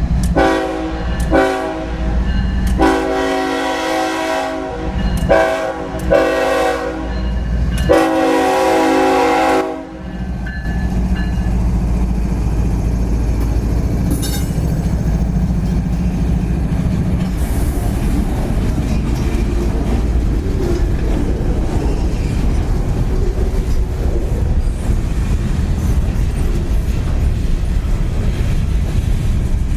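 A diesel freight locomotive sounds its air horn in a string of about six blasts, some short and some long, over the first ten seconds. The horn stops and the train rolls past with a steady deep engine rumble and rattling wheels on the rails.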